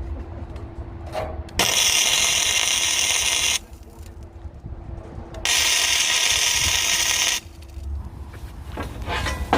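A power tool runs twice, about two seconds each time, starting and stopping sharply with a short pause between.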